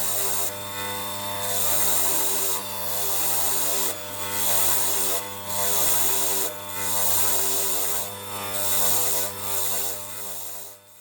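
Rhythmic rasping strokes, about one a second, of a hand file or abrasive worked back and forth over a metal engine part, over a steady background hum; the sound dies away just at the end.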